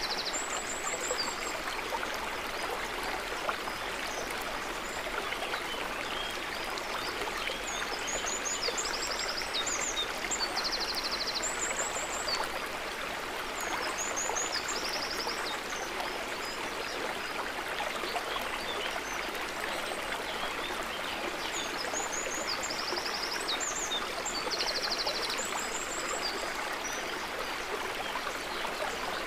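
Small water flow trickling and babbling steadily, with short, high, quick chirping trills that come back every several seconds.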